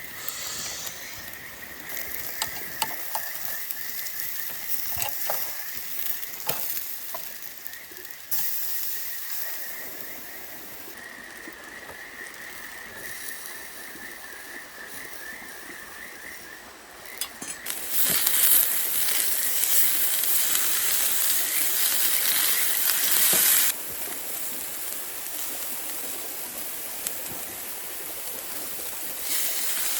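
Seasoned chicken frying in a pan, a steady sizzle that turns much louder for about six seconds a little past halfway, then settles back.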